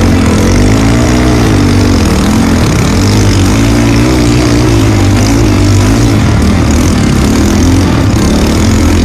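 Trail motorcycle engine running under changing throttle, its pitch rising and falling as the rider eases on and off the gas.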